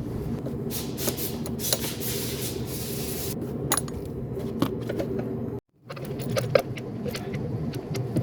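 Metal hand tools clinking and scraping while the battery's negative terminal is disconnected, over a steady low hum, with a short break about five and a half seconds in.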